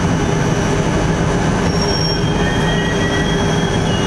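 Passenger train coach pulling into a station: a steady rumble of the wheels on the rails, with a few faint, thin high squeals from the running gear about halfway through.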